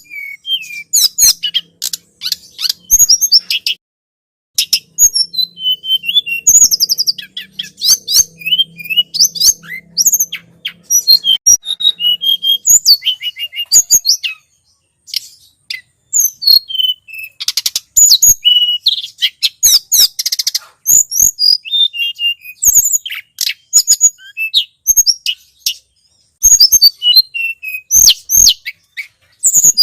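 Tledekan gunung birdsong played as a bird-lure call: rapid, high-pitched chirps and short gliding notes in dense runs, broken by a few brief pauses.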